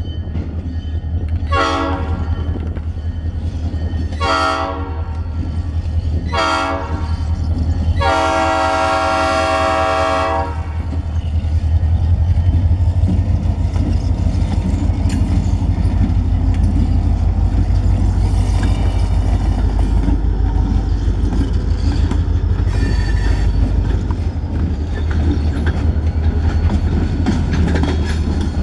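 EMD SD40-2 diesel locomotive sounding its horn for a grade crossing, long-long-short-long, with the last blast held longest. The locomotive's 16-cylinder two-stroke diesel then rumbles past close by, followed by loaded log cars rolling over the rail joints with a clickety-clack.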